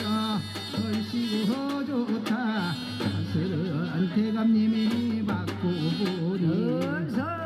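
Korean shamanic ritual music: a melody of long, wavering held notes over percussion strikes.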